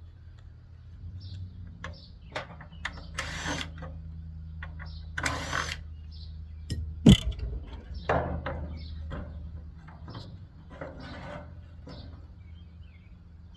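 Hand tools and metal parts clicking, knocking and scraping as an air conditioner is taken apart, with a ratchet-like clicking, a couple of short scrapes and one sharper knock about halfway through. A steady low hum runs underneath.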